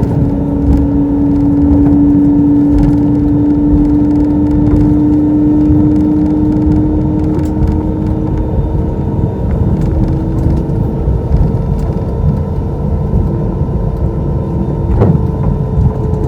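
Cabin noise of an Airbus A320-212 taxiing on its CFM56 engines at idle: a steady hum with a few held tones, the lowest slowly rising in pitch, over a low rumble from the ground roll. A short knock near the end.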